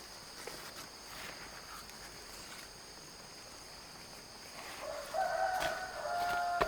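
A rooster crowing once near the end, a single drawn-out call of about two seconds, over a steady high-pitched drone.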